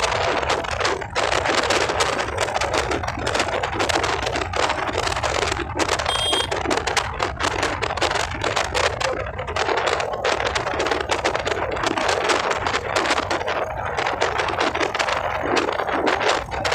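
Dense crackling and rapid irregular clicking over a steady low rumble: distorted, glitching audio from the recording during a ride.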